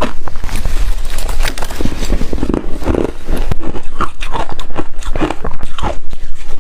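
Hard refrozen ice being bitten and chewed close to the microphone: a rapid, irregular run of loud, sharp crunches and cracks.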